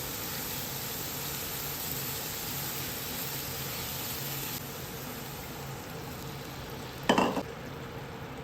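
Food frying in a pan: a steady sizzle that thins out about halfway through, then a brief, louder knock or scrape near the end.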